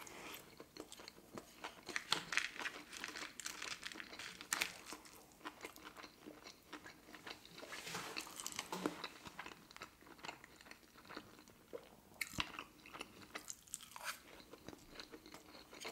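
Close-miked chewing of a sushi roll with a crunchy tempura-flake topping: a run of crisp crunches that comes and goes, with a fresh bite taken near the end.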